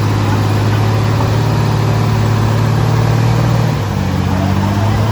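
Heavy construction machine's diesel engine running steadily with a low, loud note that shifts slightly about four seconds in.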